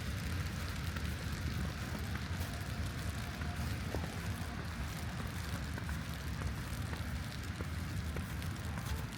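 Light rain falling and pattering in small scattered ticks, over a steady low rumble.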